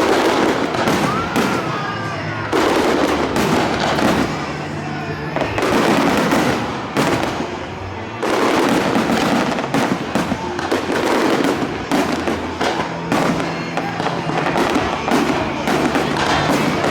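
Fireworks display: rapid bangs and crackles going off one after another in dense, overlapping barrages that swell and ease several times.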